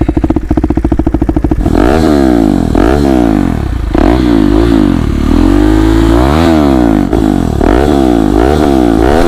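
KTM Duke 390 single-cylinder engine through a replica SC Project aftermarket exhaust, revved while standing. It idles with a fast, lumpy beat for the first couple of seconds, then is blipped repeatedly, the revs rising and falling each time.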